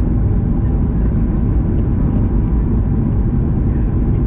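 Steady, loud roar of an airliner's engines and rushing air, heard from inside the passenger cabin on approach.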